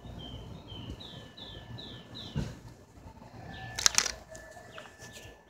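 A bird chirping in a steady series of short, falling notes, about two a second, which stop a little past two seconds in. A low thump follows, then a pair of sharp clicks near four seconds, the loudest sound here, with a faint steady high tone underneath.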